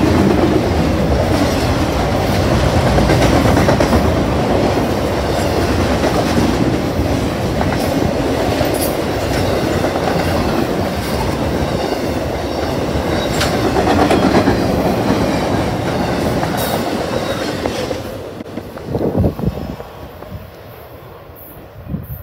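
Intermodal freight train of highway trailers on flatcars passing close by: a steady rumble and rattle of wheels and cars, with scattered sharp clicks. The sound falls away sharply about eighteen seconds in as the end of the train goes by.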